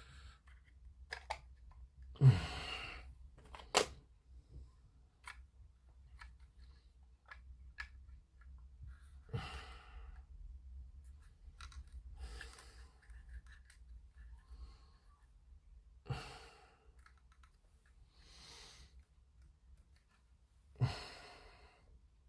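Heavy, exasperated sighs and exhales, about seven over the stretch, with the loudest about two seconds in and near the end. Faint light clicks and taps of small parts being handled come between them.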